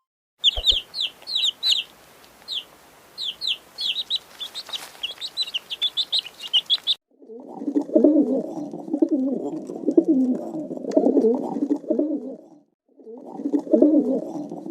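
Birds chirping in quick, high, short notes for about six seconds. Then, after a sudden change, a lower, rough, continuous animal sound comes in two long stretches with a brief break between them, fitting pigeons cooing.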